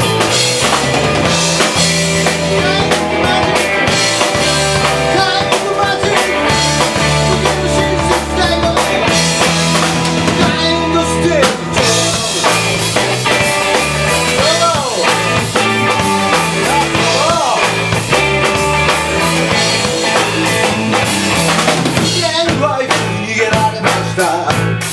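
A live rock band playing, with a drum kit keeping a steady beat and a bass line stepping between low notes. Lead notes bend up and down in pitch around the middle.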